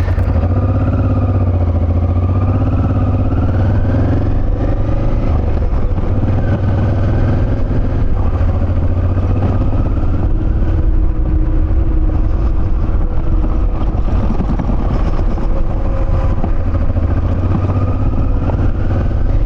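Motorcycle engine running while riding along, its pitch slowly rising and falling with the throttle over a heavy low rumble.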